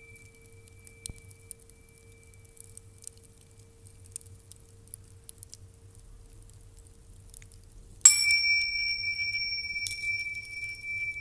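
A small metal bell struck once about eight seconds in, ringing on with a clear high tone and higher overtones. Before the strike a fainter earlier ring fades away under soft light clicks and a quiet low hum.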